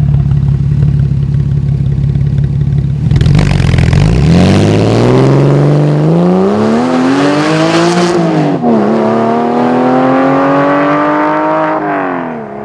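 Porsche 996 Carrera 4's flat-six with its catalytic converters removed. It runs at steady revs, then about three seconds in it is driven hard and the revs climb. A gear change about two-thirds through drops the pitch, the revs climb again, and they fall away as it comes off the throttle near the end.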